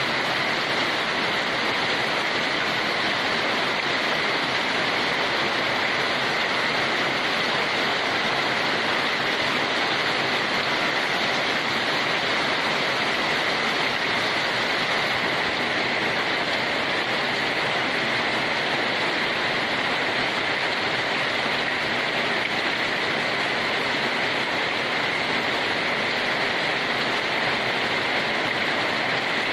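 Steady, even rain with a constant hiss and no separate drops or thunder standing out.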